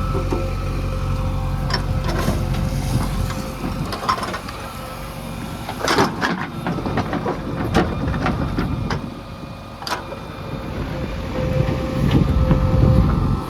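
A heavy diesel engine running, with a few sharp clanks and knocks about six, eight and ten seconds in. The engine gets louder near the end.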